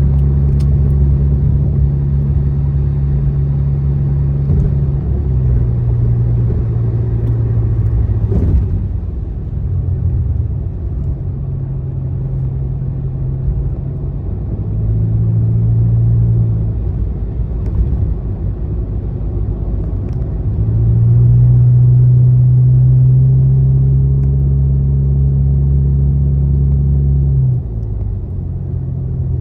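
A car driving on a highway: a steady low rumble of road and engine noise, with a low drone that shifts pitch a few times.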